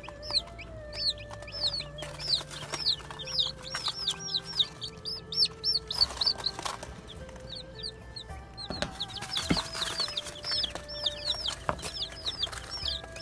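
Birds chirping busily: a rapid stream of high, down-curving peeps, several a second, with a couple of brief pauses. Two sharp knocks sound in the second half.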